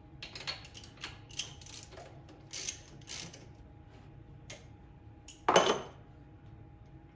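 Ratchet wrench and spark plug socket working a spark plug on the mower's twin-cylinder engine: a series of short ratcheting clicks and metal scrapes, then one louder rasping burst a little past halfway.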